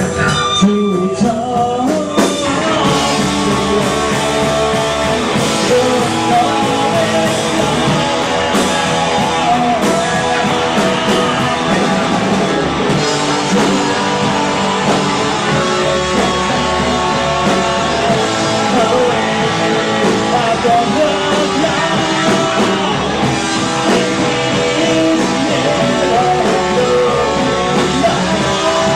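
Rock band playing live, with guitars, drums and a singer, captured by the recording in the room.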